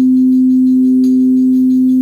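Singing bowls ringing with a loud, steady, sustained low tone, fainter higher tones wavering above it.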